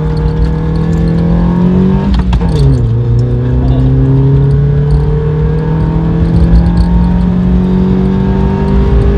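Toyota Starlet SR's naturally aspirated engine under hard acceleration, heard from inside the cabin: the engine note climbs, drops at a gear change about two seconds in, then climbs steadily again through the next gear.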